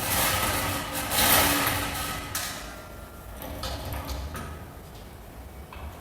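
Industrial vacuum cleaner motors running with a rushing noise, loudest in the first couple of seconds, then dying down.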